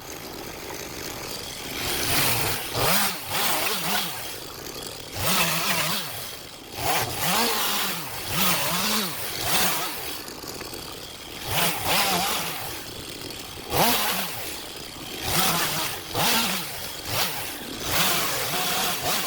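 STIHL MS 251 two-stroke chainsaw revved in short bursts over and over, its pitch rising and falling back about a dozen times.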